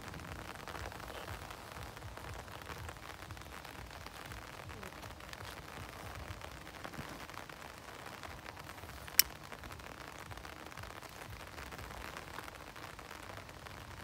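Steady rain falling, an even hiss, with a single sharp click about nine seconds in.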